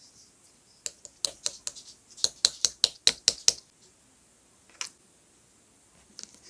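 Clear slime being pressed and squeezed by hand, making crisp clicking pops: a few single clicks, then a quick run of about six, then two more spaced out.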